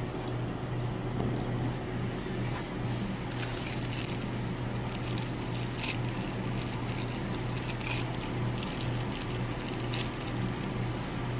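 Microwave oven running with a steady low hum, while the food heating inside gives off occasional faint crackles and pops.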